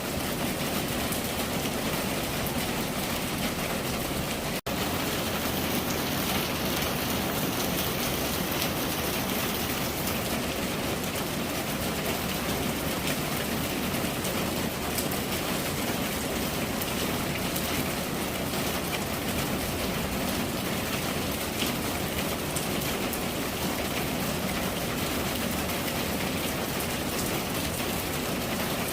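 Steady rain falling: a dense, even hiss of drops, broken once by a momentary cut-out in the sound about four and a half seconds in.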